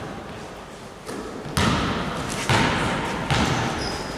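Basketballs bouncing on a gym floor, a few thuds about a second apart with the hall echoing after each.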